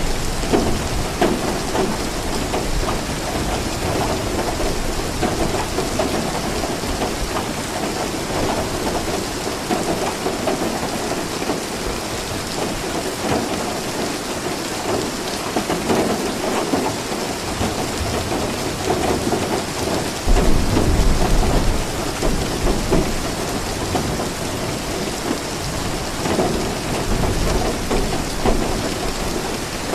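Steady rainfall, an even hiss of falling rain, with a low rumble of thunder swelling suddenly about two-thirds of the way through.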